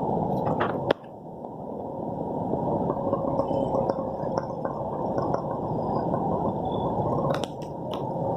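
Heavy monsoon rain and running water, dull and muffled. A sharp click comes about a second in, with the sound dropping for a moment and building back up, and two more clicks come near the end.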